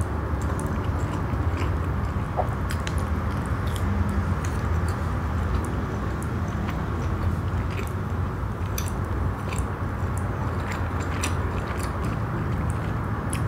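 Close-miked chewing of soft cheese naan with the mouth closed: irregular wet mouth clicks and smacks.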